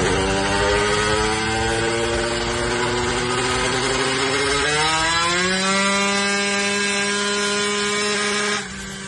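Yamaha DT 180 two-stroke single-cylinder engine running hard on a chassis dynamometer during a power run. Its pitch climbs steadily about halfway through, then the sound drops away sharply near the end.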